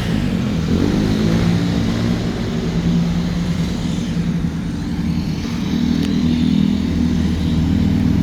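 Motor vehicle engine running close by, a steady low hum of road traffic.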